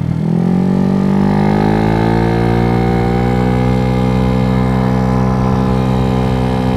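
Dongfang DF50SST scooter's 88cc big-bore four-stroke engine pulling away, its pitch climbing over the first two seconds, then running steadily at cruising revs.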